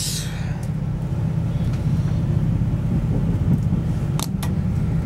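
Class 175 diesel multiple unit on the move, heard from inside the carriage: a steady low rumble from the engine and running gear. A brief rush of noise comes at the start, and two sharp clicks come close together about four seconds in.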